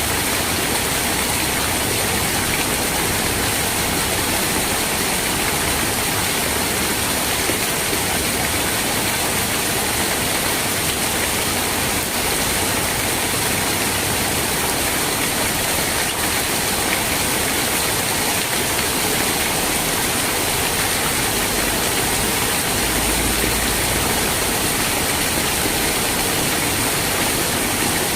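Steady rain, a dense even hiss with no single drops or breaks standing out.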